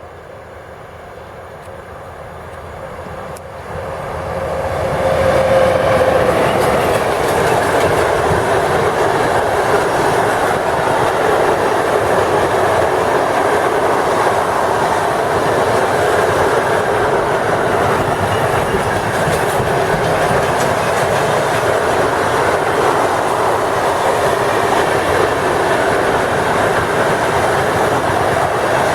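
A PKP ET22 electric locomotive hauling a container freight train, approaching and passing close by. The sound swells over the first five seconds, with a tone at the peak that dips slightly in pitch. Then the wagons roll past with a steady, loud noise of wheels on rails.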